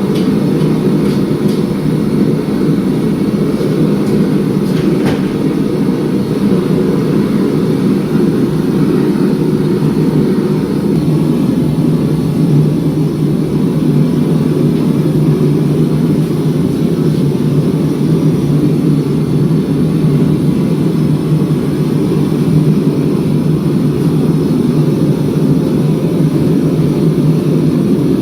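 Forging equipment running steadily with a loud, even low roar, with a few faint metallic clicks in the first few seconds.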